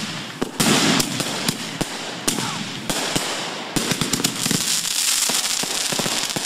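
Fireworks crackling: a dense, irregular run of sharp pops over a steady hiss of burning, with a few stronger bangs about a second in.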